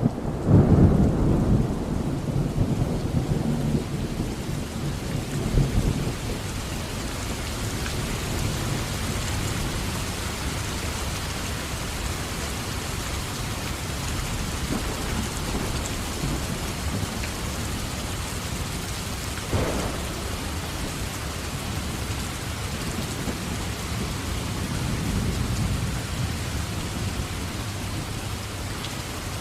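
Steady rain with thunder. A long low rumble of thunder fades over the first six seconds, a single short sharp crack comes about two-thirds of the way through, and a softer rumble swells near the end.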